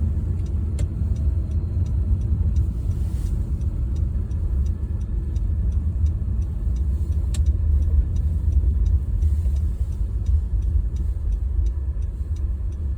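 Car driving on a road, heard from inside the cabin: a steady low road and engine rumble, with a faint, regular light ticking over it.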